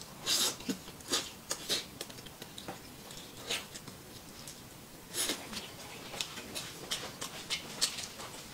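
Close eating sounds: a man chewing roast chicken, with irregular wet smacks and clicks of the mouth, a few of them louder.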